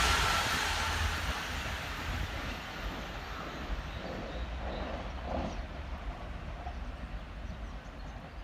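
A passing train fading into the distance: its wide rushing noise dies away over the first couple of seconds, leaving a low, steady rumble.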